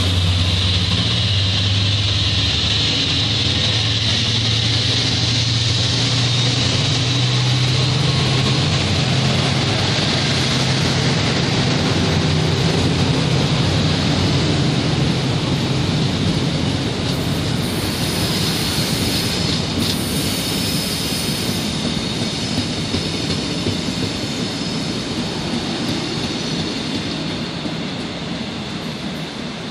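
Korail 7600-class diesel-electric locomotive passing close by at a station platform, its engine hum strong in the first half. Passenger cars then roll past with wheel-on-rail rumble and a high hiss for a few seconds past the middle. The sound fades near the end as the last car draws away.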